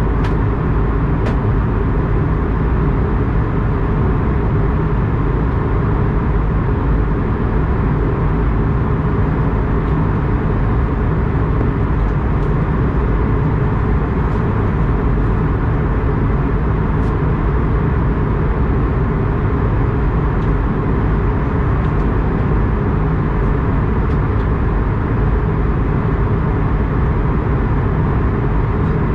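Steady noise of an Airbus A220-100's Pratt & Whitney PW1500G geared turbofan engines running, even in level throughout, with a few faint ticks.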